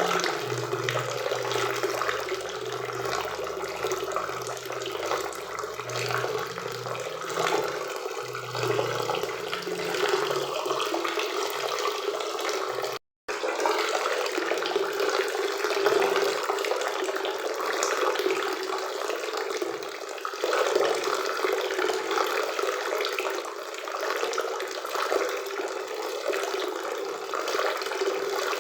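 Forest river and waterfall rushing steadily, cutting out for an instant about halfway through.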